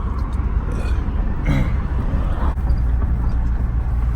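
Steady low rumble of a vehicle being driven, engine and road noise heard from inside the cab. A brief faint voice about a second and a half in.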